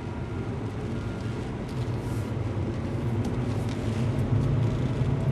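Car driving, heard from inside the cabin: a steady low rumble of road and engine noise that grows a little louder near the end.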